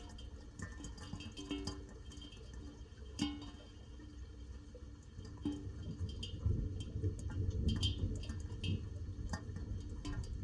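Sparse plucked guitar notes, with a low rumble swelling in under them in the second half.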